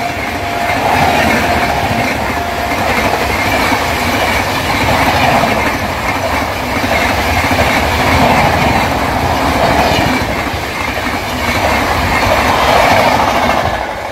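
Long passenger train passing close at speed: a steady rush and rumble of coaches, with wheels clattering over rail joints and the noise swelling as each set of wheels goes by. The tail of the locomotive's horn fades out in the first couple of seconds, and the noise drops as the last coach clears near the end.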